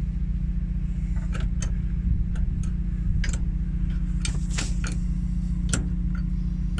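Scattered sharp metallic clicks and ticks of a wrench and steel hydraulic fitting being worked, over a steady low mechanical drone.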